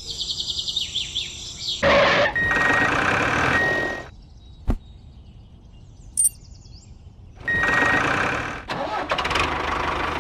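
Engine noise in two loud stretches that start and stop abruptly, after high chirping in the first two seconds, with a single sharp click in the quiet gap between.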